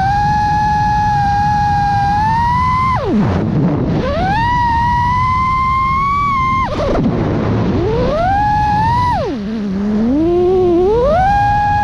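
FPV quadcopter's brushless motors whining at a high pitch. Three times, about three, seven and nine and a half seconds in, the pitch drops sharply as the throttle is chopped, then climbs back as the throttle is punched again. A low rushing noise runs underneath.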